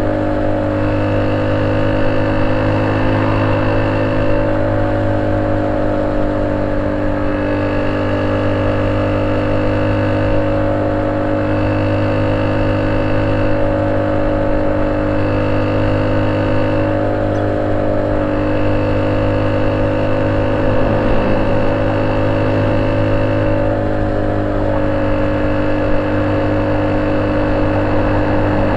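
Honda C70 single-cylinder four-stroke motorcycle engine running at a steady, unchanging speed through a banana-style 'pisang' exhaust, with a faint high tone that comes and goes every couple of seconds.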